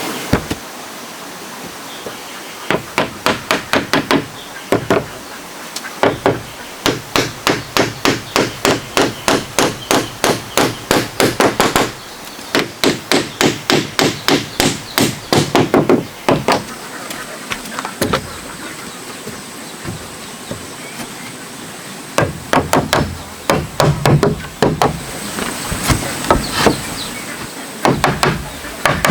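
Hammer driving nails into wood: runs of quick, even blows, about three a second, broken by short pauses.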